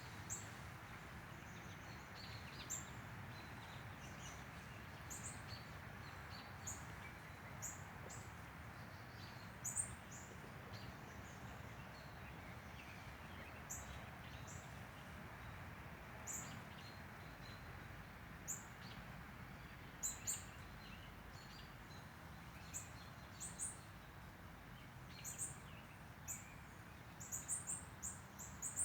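Small birds chirping in short, high notes scattered over a steady faint outdoor hiss, the chirps coming thicker near the end.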